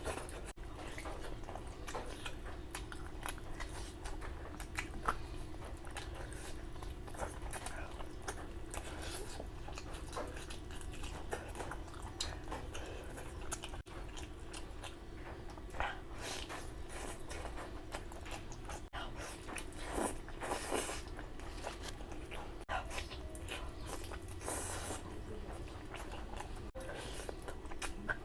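A person chewing and biting food close to the microphone, with many irregular mouth smacks and clicks over a steady low hum.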